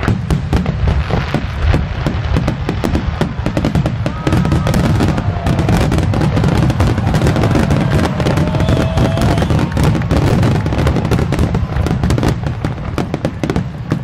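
Aerial firework shells bursting in a dense, rapid barrage: overlapping booms and crackles follow one another with no break, with a strong deep low end throughout.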